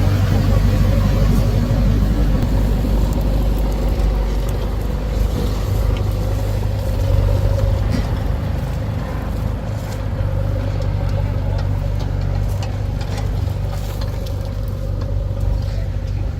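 Heavy diesel engine of a working machine running steadily with a low, even drone.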